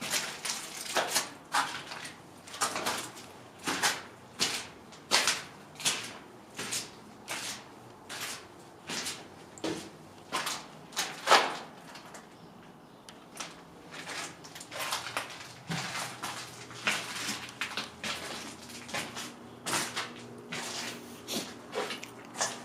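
Footsteps on a hard, debris-strewn floor, about two steps a second with a short pause partway through. A faint steady hum comes in near the end.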